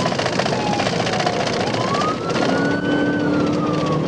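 Patrol car's siren on a slow wail, falling, rising again about a second and a half in, then falling near the end, over loud engine and road noise from the car in pursuit.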